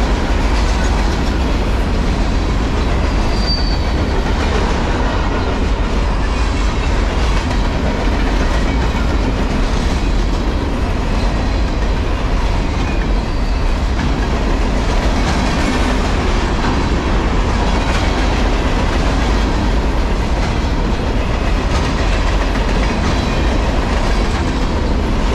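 Empty container cars of a Norfolk Southern freight train passing at speed: a steady, loud noise of steel wheels running on the rails.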